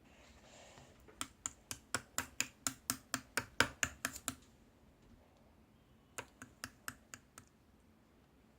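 A quick run of about fourteen sharp taps, some four to five a second, then a pause and a shorter run of about six more taps.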